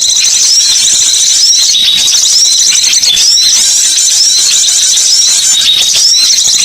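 Recorded chorus of small songbirds used as a bird lure (suara pikatan): a dense, loud, high-pitched chattering of many overlapping chirps, with short hooked upswept notes recurring about once a second.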